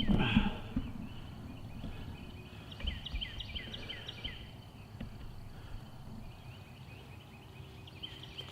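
Small birds singing in the background, a run of short, high chirps that drop in pitch, repeating. In the first half second there are a few louder knocks and rustles of handling.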